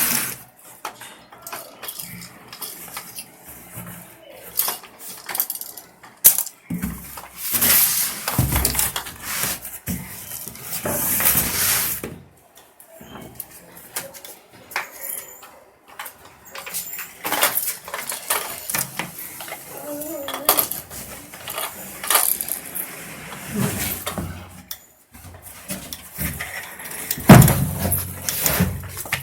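Unboxing noise: packaging rustling and tearing, with repeated clicks and clatter of parts being handled and set down.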